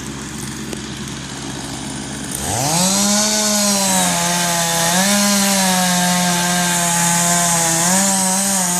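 Two-stroke chainsaw running at a low steady note, then revving sharply up about two and a half seconds in and held at full throttle, its pitch dipping briefly now and then as it cuts into the pine.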